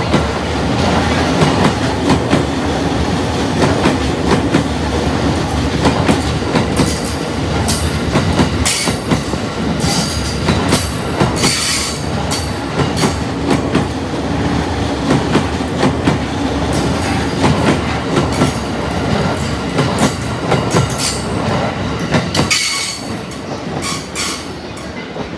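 E231-series electric commuter train running past close by, its wheels clacking over the rail joints in a rapid steady rhythm, with high wheel squeals now and then. About three seconds before the end the sound drops to the quieter run of another train pulling in.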